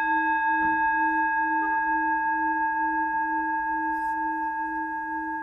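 A singing bowl ringing after a single strike, its low tone pulsing slowly under several higher overtones, gradually fading.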